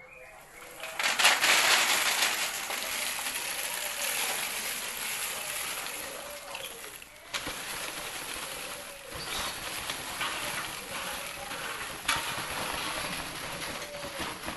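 Dry-seasoning mixing machine tumbling crisp chips or snacks, a steady dense rustling clatter that starts about a second in.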